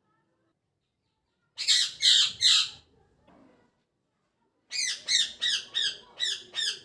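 Pet parrot squawking: three calls close together about a second and a half in, then after a pause a fast run of about seven calls, roughly three a second.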